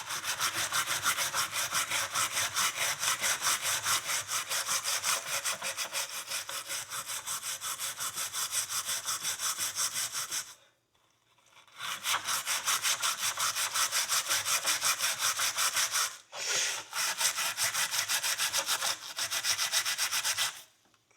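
Steel wool scrubbing a steel horseshoe in rapid, even back-and-forth strokes, cleaning the metal. The scrubbing stops for about a second midway, then resumes.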